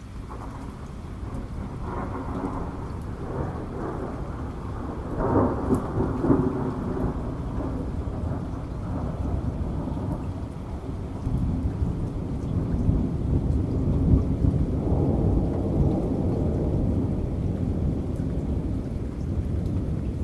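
Rolling thunder rumbling over steady rain, building in the first seconds and swelling loudest about five seconds in and again around fifteen seconds.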